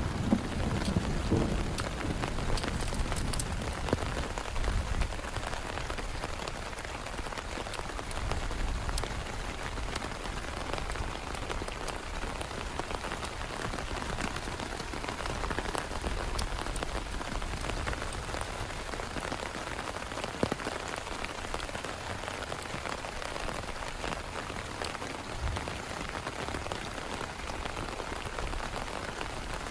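Steady heavy rain falling, with scattered sharper drop hits. A low rumble of thunder dies away in the first second or two.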